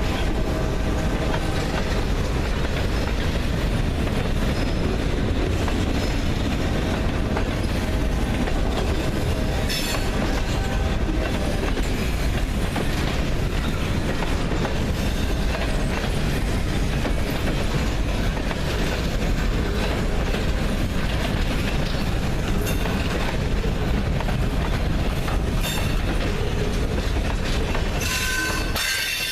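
Freight train cars rolling past, steel wheels clattering over the rail joints in a steady rumble, with a brief high wheel squeal near the end.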